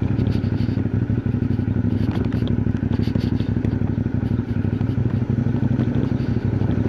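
CFMoto 450NK's parallel-twin engine running steadily under way, with scattered small clicks and rattles over the engine note.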